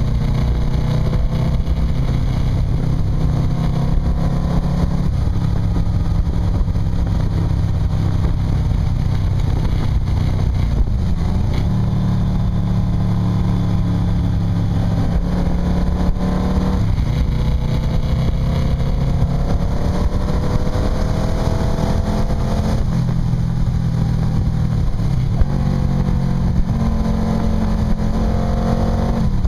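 Motorcycle engine running steadily while riding along, its pitch dropping briefly and climbing again three times.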